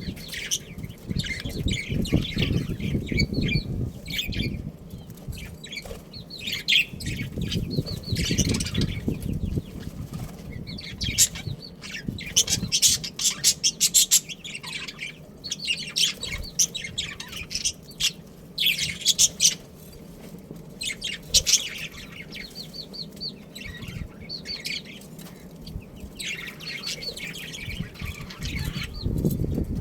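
A flock of budgerigars chattering with rapid high chirps, with wings fluttering.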